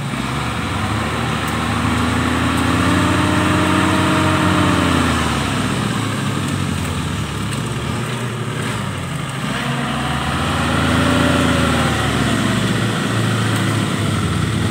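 Suzuki Jimny 4x4's engine under load on a steep dirt climb, revving up and easing off twice as the vehicle crawls forward.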